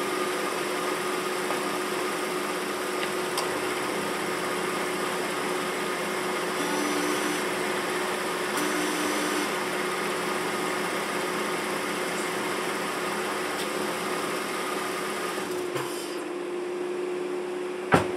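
A 2010 Ford Fusion Sport's 3.5-litre V6 idling with a steady hum, with two brief higher-pitched whirring bursts about seven and nine seconds in. A sharp click near the end.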